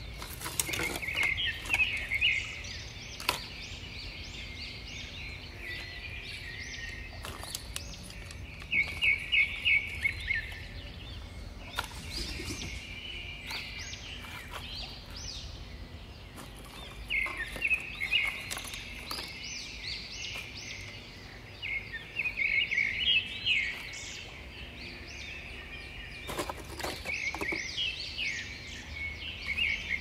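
Birds chirping in repeated quick bursts of high notes every few seconds, over steady outdoor background noise, with a few sharp knocks or clicks.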